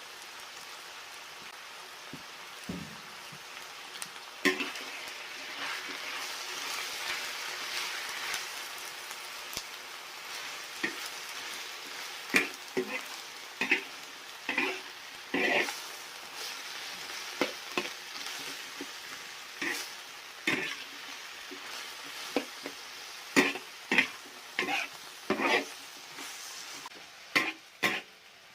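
Pork and Chinese cabbage stir-frying: a steady sizzle with irregular scrapes and clacks of the spatula against the pan as the food is tossed. The sizzle dies down near the end.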